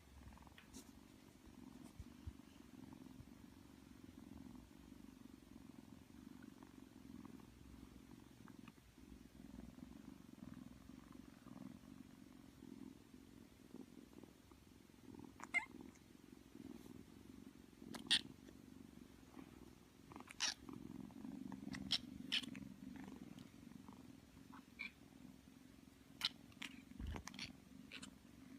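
Kitten purring steadily and quietly, with a scattering of sharp clicks or taps in the second half.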